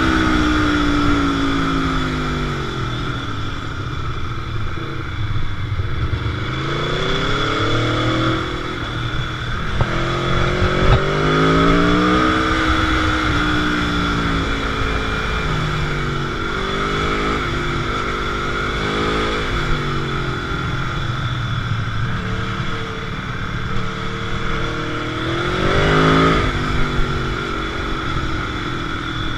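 Motorcycle engine under way, its pitch repeatedly rising as it accelerates and dropping back on shifts and off the throttle, over a steady rush of wind noise.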